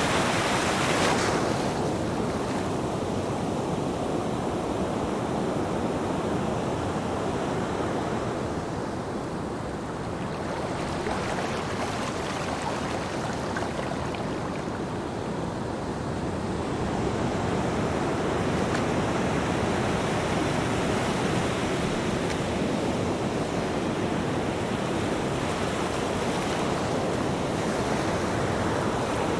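Ocean waves breaking and washing on a beach, a continuous surf wash that swells and eases slowly, with a brighter hiss in the first second.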